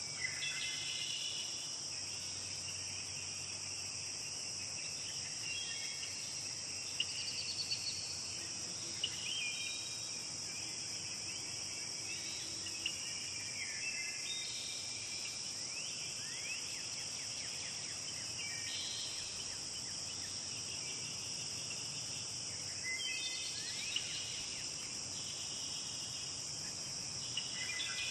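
Steady high-pitched insect chorus, crickets or similar, with brief chirping calls coming and going over it.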